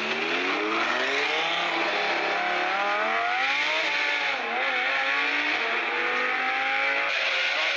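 A car engine accelerating over a steady hiss: its pitch climbs slowly, dips and wavers briefly about four seconds in, then climbs again.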